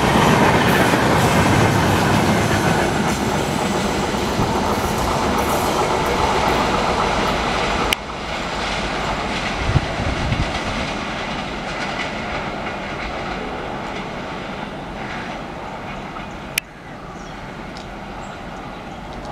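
Indian Railways passenger train's coaches rolling past, wheels running on the rails, the noise steadily fading as the train moves away. The sound jumps abruptly twice, about eight seconds in and near the end.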